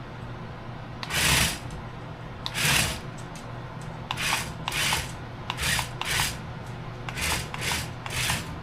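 Toy RC stunt car driving, its tyres scuffing and skidding on the ground in about nine short rasping bursts, a couple of them close together.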